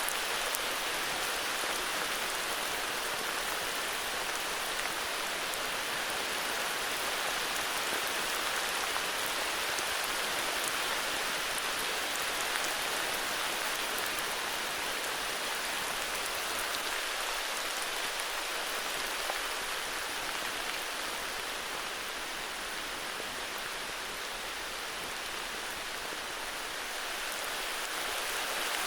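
Heavy rain falling steadily, a dense even hiss of drops with a slight lull in loudness toward the end.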